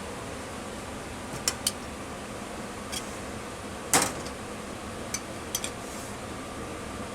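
Steady hum of a kitchen ventilation fan, with scattered clinks and knocks of metal utensils and pans. The loudest is a knock with a short ring about four seconds in.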